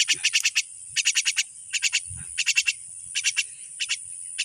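Frogs calling in short trains of rapid pulses, a new burst about every second, over a steady high-pitched insect drone.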